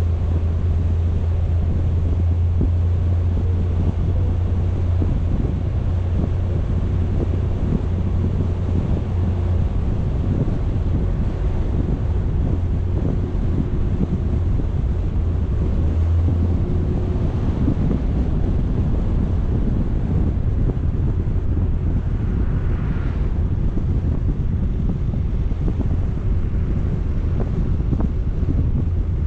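Wind buffeting the microphone in a steady low rumble over the running sound of a moving vehicle, with no break.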